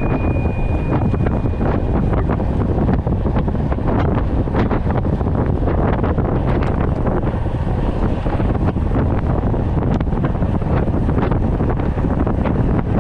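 Wind buffeting the microphone: a loud, steady low rumble with frequent short crackles. A single high ringing tone, begun just before, fades out about two seconds in.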